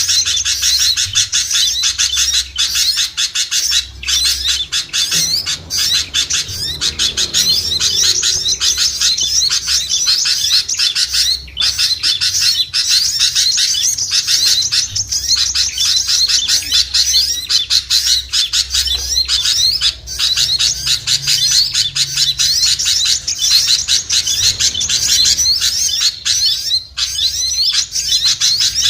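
A dense, noisy chorus of many small songbirds chirping and twittering rapidly over one another without a break: a bird-lure recording meant to draw small birds such as white-eyes and prinias down.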